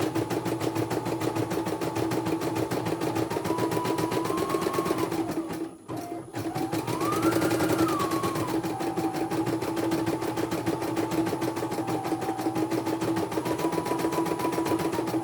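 Computerized embroidery machine stitching: a fast, even needle rhythm over a motor whine that rises and falls in pitch. It pauses briefly about six seconds in, then starts stitching again.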